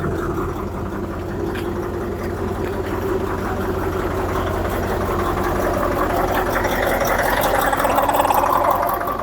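Heavy truck engine running steadily, rising in level over the last few seconds and then easing off near the end.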